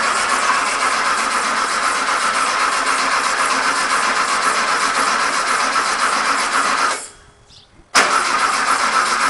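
Starter motor cranking a freshly built 1776 cc air-cooled VW flat-four with the ignition off, turning it over to build oil pressure before its first start. It cranks steadily for about seven seconds, stops for about a second, then cranks again.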